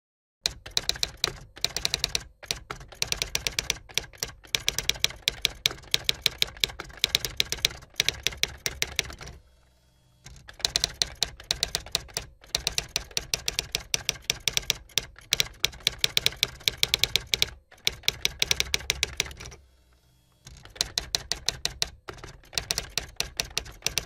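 Typing sound effect: rapid key clicks, many a second, that pause twice for about a second, once near the middle and again later.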